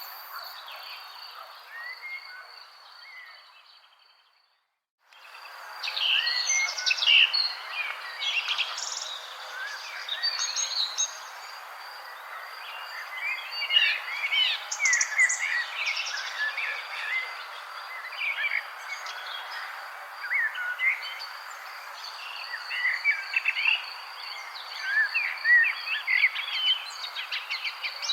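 Many songbirds chirping and twittering in quick, short calls over a steady pulsing insect trill and a background hiss. The sound fades out about three seconds in, drops out for about a second, and fades back in.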